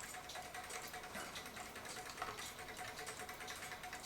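Faint, rapid, even ticking, with a faint steady hum behind it.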